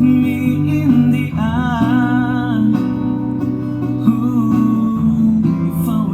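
Acoustic guitar accompaniment to a slow ballad, with a voice singing a long wavering held note about a second and a half in and a shorter one near four seconds.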